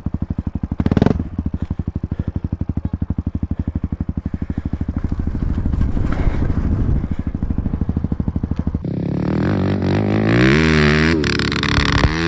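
Kingger 250 fuel-injected trail bike engine running at low revs with an even, rapid pulse. About nine seconds in it gets louder and revs up and down repeatedly.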